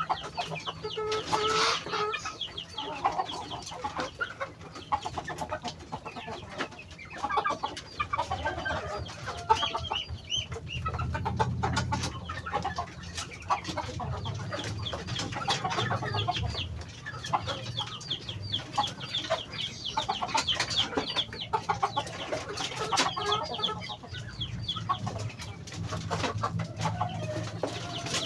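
A flock of Muscovy ducks feeding, with many short chirping calls and quick clicking over a low steady hum.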